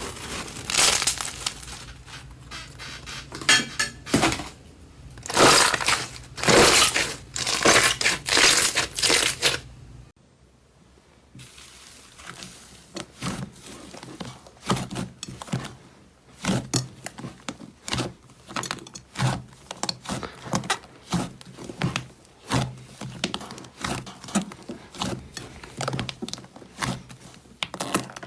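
Slime being squeezed and pressed, with crackling and popping sounds. About ten seconds in it cuts to a quieter stretch of many short, quick crackles and pops.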